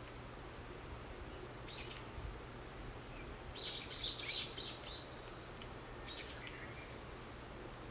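Wild birds chirping in short bursts of calls, the loudest group about four seconds in, over steady faint background noise.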